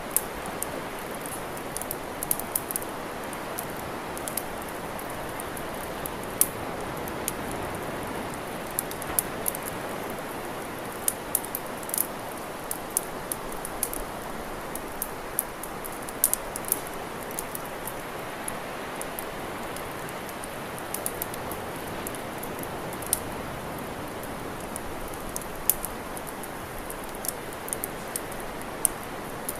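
Campfire crackling: irregular sharp pops and snaps, several a second at their busiest, over a steady rushing hiss.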